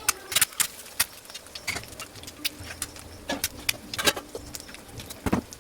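Irregular clicks, taps and light clatters, like things being handled, with a heavier knock near the end.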